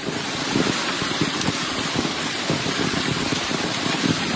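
Heavy storm rain pouring down: a dense, steady hiss with many small knocks of impacts mixed in.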